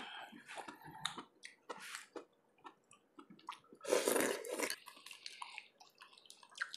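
Close chewing and wet mouth sounds of someone eating lobster in sour sinigang broth, with a louder, longer wet sound about four seconds in.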